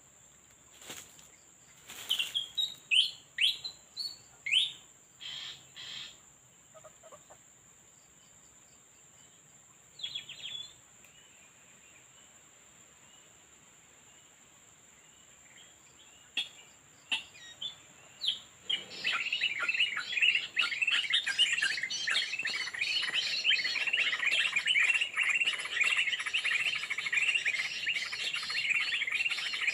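Small birds calling. A few separate chirps and short whistled notes come in the first ten seconds. From about nineteen seconds in, a dense, continuous chatter of many calls takes over. A steady high whine sounds throughout.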